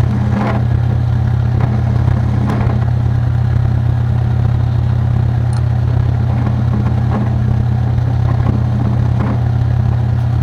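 A shop machine's electric motor running with a steady low hum, with a few faint scrapes and clicks as a freshly drilled steel part is deburred.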